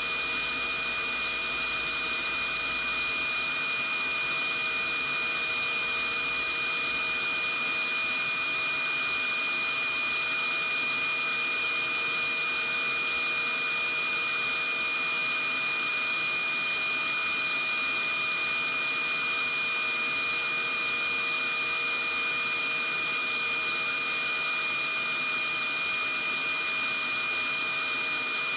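Vacuum cleaner running steadily: an even rushing hiss with a constant high whine on top, unchanging throughout.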